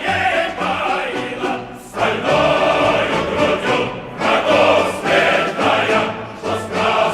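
Choral music: a choir singing a Russian-language song.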